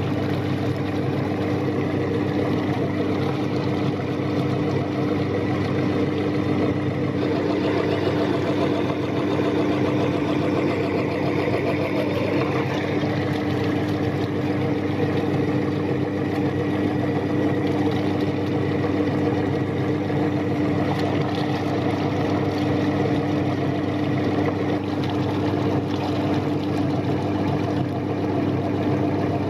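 Electric meat grinder running steadily, its motor giving a constant hum with a grinding noise over it.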